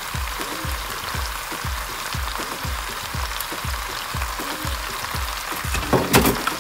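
Background music with a steady bass beat, about three beats a second, over a steady sizzle of chicken and vegetables frying in oil in the pot. A brief clatter about six seconds in.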